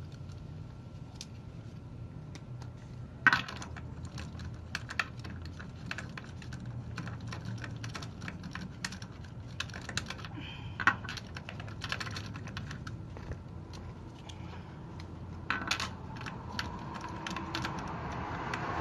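Wheel lug nuts being taken off: a run of small rapid metallic clicks and clinks, with a few sharper metal knocks, about three seconds in, near eleven seconds and near fifteen seconds.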